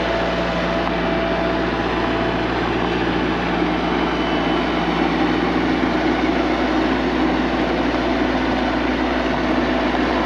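Diesel skid steer engine running steadily while the machine is driven, with a continuous mechanical drone.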